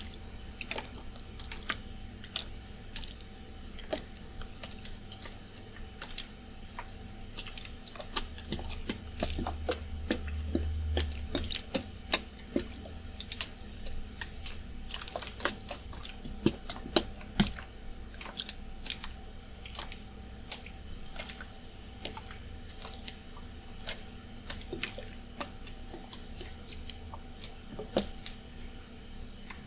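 A water bottle being shaken and handled, the liquid sloshing, with many irregular clicks and crinkles. A steady air-conditioner hum runs underneath.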